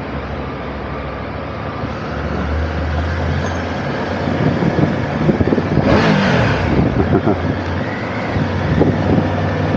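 Motorcycle engine running at low speed, with a steady low hum that strengthens about two seconds in and a louder swell of noise around six seconds.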